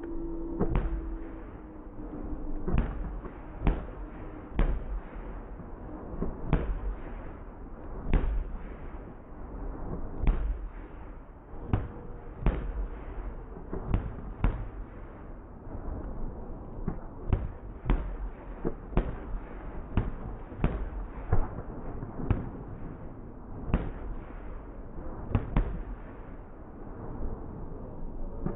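Fireworks going off: a long run of sharp bangs at irregular intervals, roughly one a second, over a steady rumbling background.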